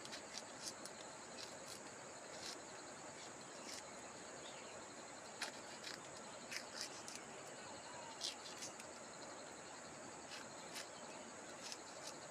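Faint steady high-pitched chirring of insects, crickets or similar, with brief sharp ticks scattered irregularly through it.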